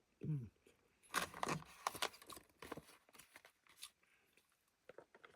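Irregular crinkling, clicking and crackling handling noises for about three seconds, starting about a second in, with a brief vocal sound just before.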